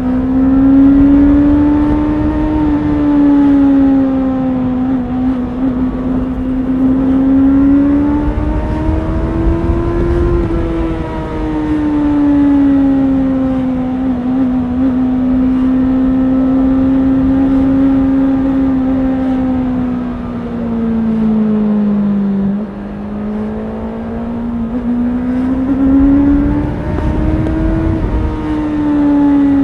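Honda CBR650R's inline-four engine running under load, its pitch rising and falling slowly every few seconds as the throttle is opened and eased. A brief dip in loudness comes about two-thirds of the way through, and a low rumble runs underneath.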